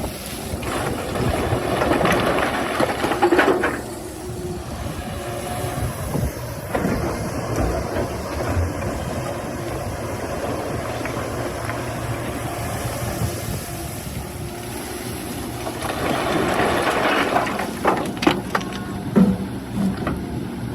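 Hydraulic excavator running and working, with two louder spells of noisy scraping, the second ending in a few sharp knocks.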